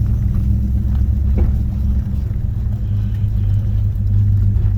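Oldsmobile 455 Rocket V8 running steadily as the car is driven, heard from inside the cabin as a low, even rumble. The engine is not yet fully warmed up.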